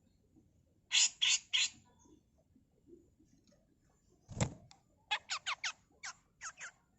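Grey-cheeked bulbul (cucak jenggot) giving harsh, rasping calls: three in quick succession about a second in, then a rapid run of short falling notes in the second half. A dull knock comes about midway.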